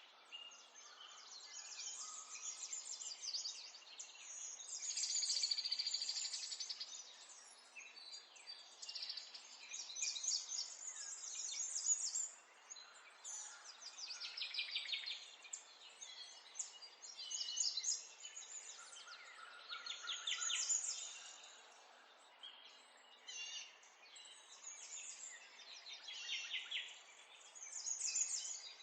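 Several small songbirds singing and chirping over one another: quick twittering phrases and rapid trills that come in bursts and overlap, over a faint steady background hiss.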